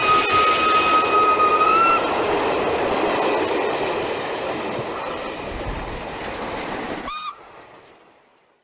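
Steam locomotive whistle blowing steadily for about two seconds over a steady hiss of steam and running noise. The hiss slowly fades, a brief short whistle toot sounds near the end, and then the sound cuts off abruptly.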